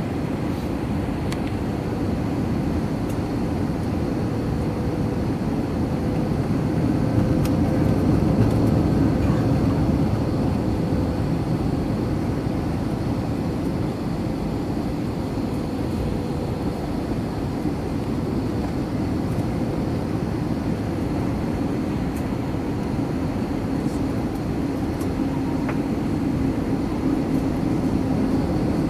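Steady rumble of engine and airflow noise heard inside the cabin of an Airbus A321-231 with IAE V2500 engines during the landing, with a faint steady whine. The noise swells briefly about seven to ten seconds in.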